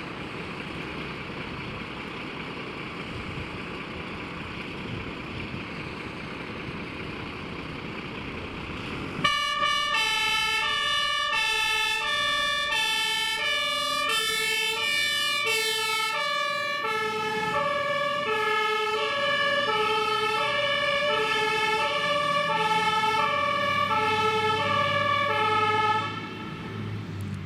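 Steady vehicle rumble, then a fire engine's German two-tone siren (Martinshorn) switches on abruptly about nine seconds in, alternating between two pitches, and cuts off shortly before the end.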